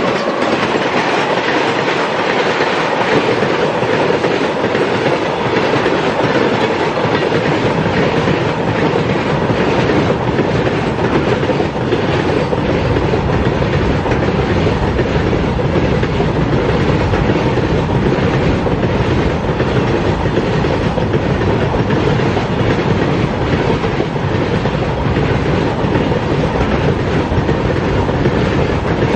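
A train running past, a steady loud rumble with the clatter of its wheels over the rail joints.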